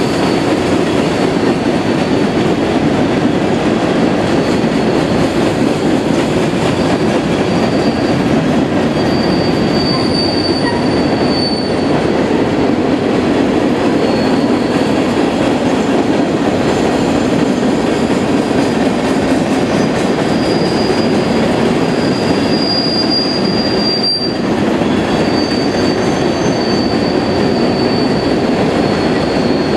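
Empty open-top coal hopper cars of a long freight train rolling past: a steady rumble of steel wheels on rail, with a thin, high wheel squeal that comes and goes, strongest about ten seconds in and again a little past twenty seconds.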